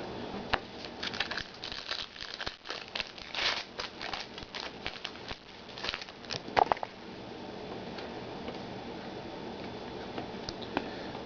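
A trading-card pack's wrapper crinkling and tearing as it is opened, with cards being handled: a quick run of crackles and clicks for about seven seconds, then only a faint steady room hum.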